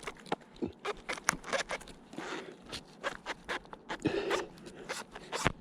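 Close rustling and scraping with many short snaps and clicks in quick succession: hands working around a tree trunk, picking oyster mushrooms.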